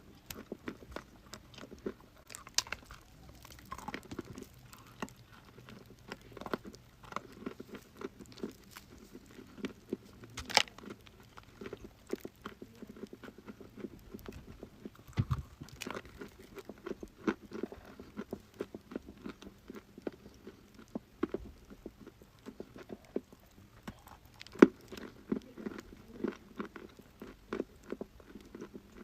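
Dry crunchy chalk being bitten and chewed close to the microphone: a steady run of crisp crunches and snaps, with sharper bites about ten seconds in and near the end.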